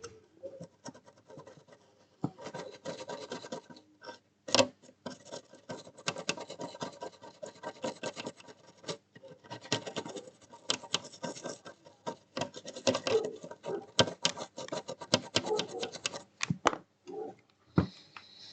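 Dense, irregular scratching and rubbing with many small sharp clicks, from handwork on the console's circuit board at the repair bench.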